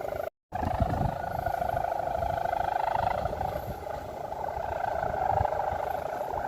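Steady buzzing hum with a fast flutter, typical of a kite's hummer (sendaren) singing in strong wind, over gusty wind rumble on the microphone. The sound cuts out briefly just after the start.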